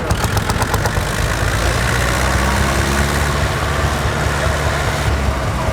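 Old farm tractor engines running under load in a tractor pull, a steady heavy diesel drone with a rapid knocking beat in about the first second.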